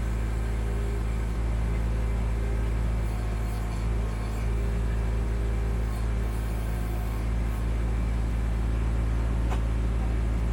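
Kubota B2650 tractor's three-cylinder diesel engine running steadily while the BH77 backhoe is worked.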